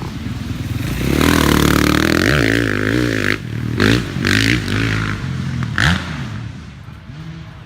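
Small dirt bike engine revving up and down, its pitch rising and falling, then fading away after about six seconds. A few sharp knocks or clatters come between about three and six seconds in.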